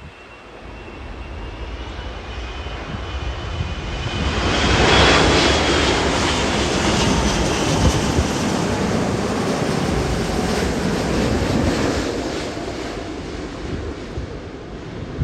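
Airplane coming in to land and passing overhead: its engine noise builds over about five seconds, stays loud for several seconds, then fades away.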